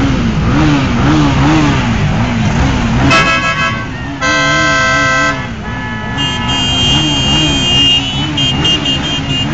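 Vehicle horns honking in several different pitches, one after another for about a second each from about three seconds in. Under them runs a continuous wavering tone with vehicle engine noise.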